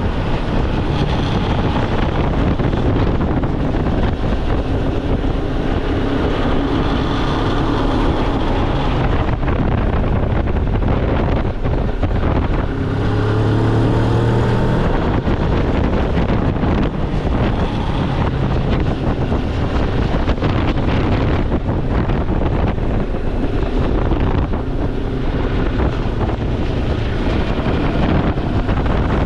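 Moto Morini X-Cape motorcycle engine running under way, heavy wind noise buffeting the microphone. About halfway through the engine pitch climbs briefly as it accelerates.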